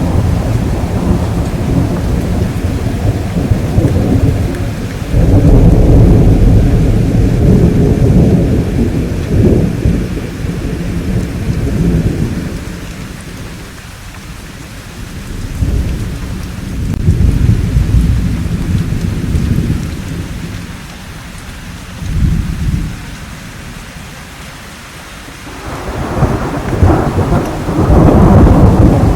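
Thunderstorm: rolling thunder rumbling in long, deep swells that build and fade over several seconds, over steady rain. The thunder is loudest near the start, again about a third of the way in, and near the end, with quieter lulls in between.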